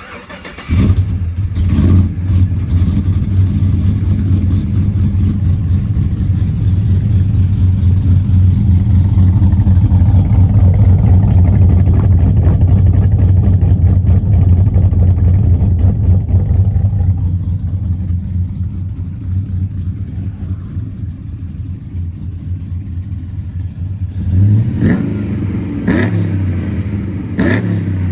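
Cammed LS2 V8 in a 2009 GMC Sierra fitted with long-tube headers and a true dual exhaust starts up about a second in and idles loudly, the idle easing down after about 17 s. Near the end it is revved in three quick blips.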